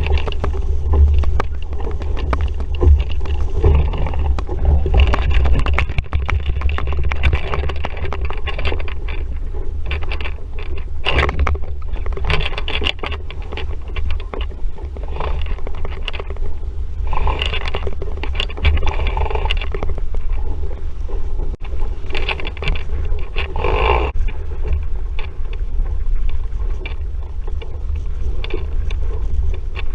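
Wind buffeting the microphone with a steady low rumble, over water rushing and splashing along the hull of an RS Vareo sailing dinghy under way in a breeze, with louder splashes now and then.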